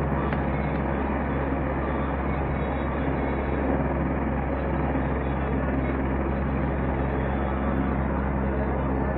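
Helicopter engine and rotor noise, a steady drone that holds at one level throughout.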